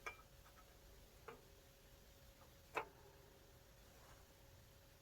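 Near silence broken by three small sharp clicks, the last the loudest, over a faint steady hum.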